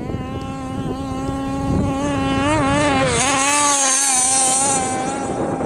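Baja dune car's engine running at a steady, fairly high pitch, wavering briefly in the middle. A high hiss joins it through the second half.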